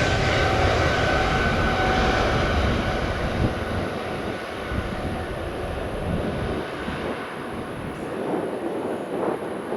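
Jet aircraft passing and receding. A loud engine rumble with a high whine fades away over the first few seconds, then the rumble slowly dies down.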